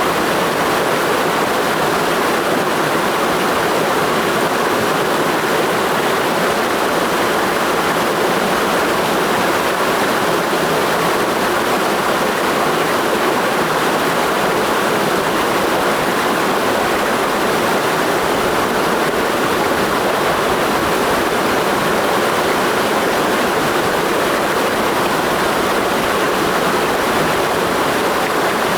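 Mountain stream rushing over rocks in a steady, loud wash of water with no breaks or changes.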